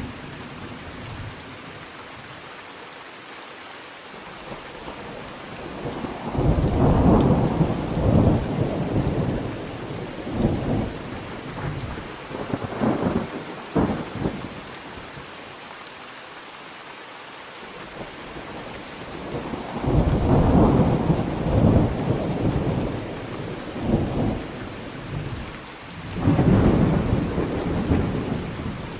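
Steady rain falling, with three rolls of thunder rumbling through it, the first about six seconds in, the second around twenty seconds and the third near the end.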